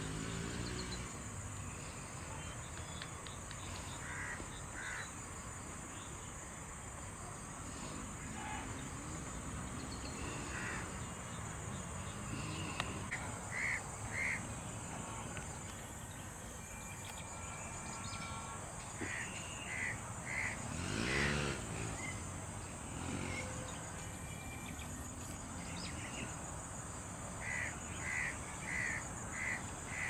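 Outdoor ambience: a steady high-pitched insect drone, with birds giving runs of short repeated calls, several notes at a time. The runs come a few times, the last near the end. A brief louder rising-and-falling sound comes about two-thirds of the way through.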